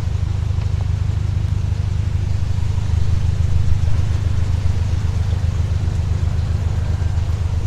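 Narrowboat's diesel engine running at low revs, a steady low throb with an even beat.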